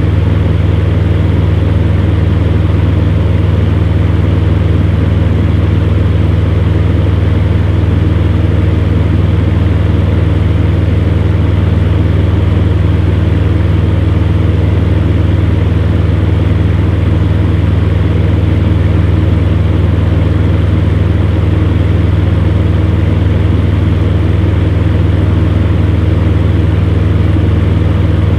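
Electric fan heater running steadily: an even low hum from the fan motor with a few steady tones over the rush of blown air.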